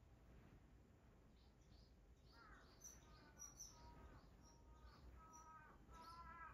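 Faint bird calls: a run of short repeated calls, about three a second, starting about two seconds in, with higher chirps among them.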